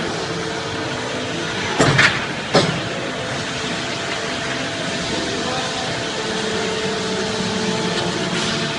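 CNC pipe bending machine running with a steady machine hum, and a few sharp metallic clanks about two seconds in.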